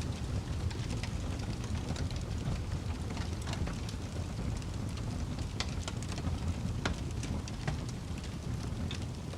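Wood fire in a fireplace crackling: many sharp, irregular pops over a steady low rumble of the flames.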